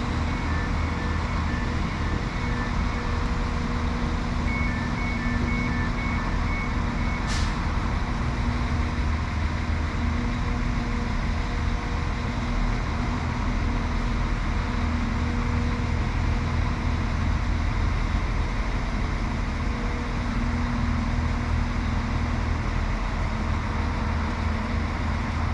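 Class 195 diesel multiple unit idling at the platform with a steady low diesel hum. Runs of high beeping sound in the first three seconds and again from about five to seven seconds in, the second run ending in a sharp click.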